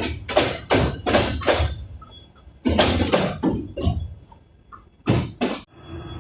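Train wheels clacking in pairs over rail joints, each pair from one bogie's two axles. The pairs come further and further apart, the train slowing as it passes, with a low rumble under them.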